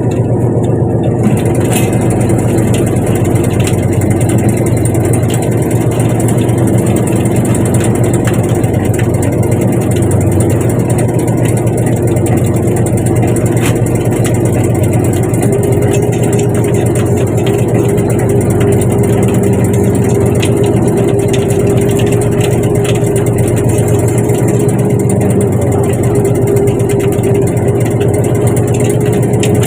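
Fishing boat's engine running steadily with a low hum, its pitch stepping up slightly about halfway through.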